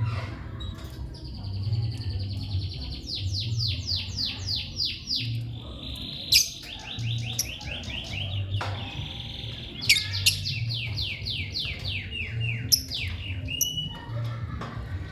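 Small cage bird singing long trills of rapidly repeated sweeping chirps, several runs of them broken by a few sharp clicks. A low pulsing hum runs underneath.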